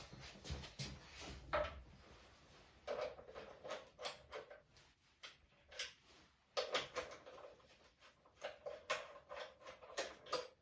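Irregular light knocks and clicks of small objects being handled, a few with a brief ringing tone.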